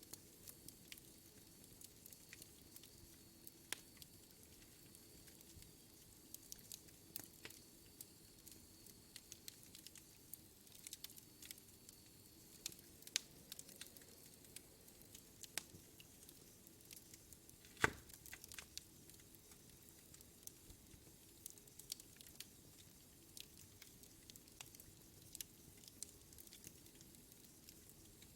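Wood fire in a fireplace crackling quietly, with scattered sharp pops and one loud snap about two-thirds of the way through.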